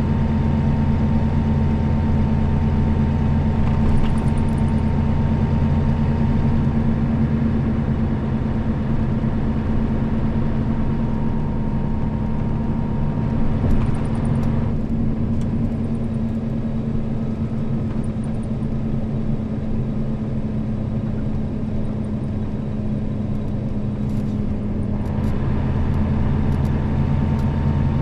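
Nissan Diesel KL-RA552RBN route bus's diesel engine running at a steady note while the bus drives along, heard from on board. A faint whine above the engine drops out about halfway and returns near the end.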